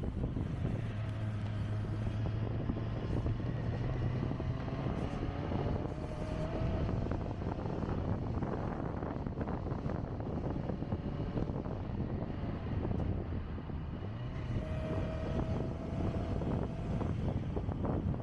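A vehicle engine running steadily under a constant rush of wind, with a faint tone that rises slowly twice.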